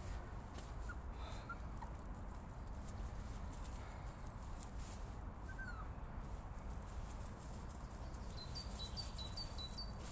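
A low steady rumble of wind on the microphone, with footsteps and faint bird chirps. Near the end a small songbird gives a quick run of about eight short, high notes.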